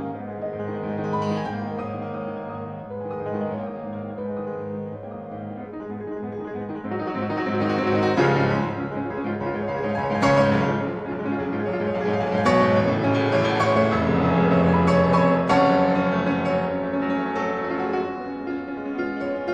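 Gentle piano music with sustained chords, swelling louder in the middle and settling again near the end.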